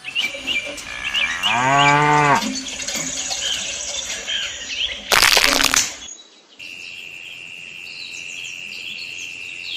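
A cow moos once, a single low call lasting about a second, over chirping birds. About five seconds in comes a short, loud rush of noise, followed by steady high chirping.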